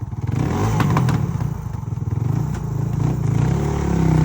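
Suzuki DR350 dirt bike's single-cylinder four-stroke engine running under throttle as it is ridden, getting louder and climbing in pitch near the end.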